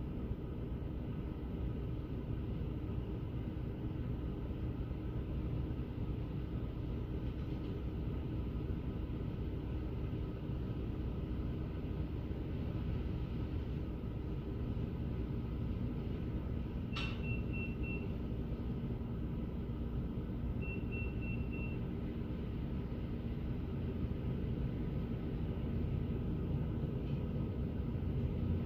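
Steady low rumble of a car heard from inside the cabin. About two-thirds of the way through there is a sharp click, followed by two short runs of rapid high-pitched beeps a few seconds apart.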